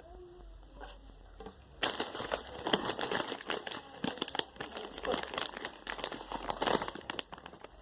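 A Takis chip bag crinkling as it is handled, starting about two seconds in as a dense, rapid crackle.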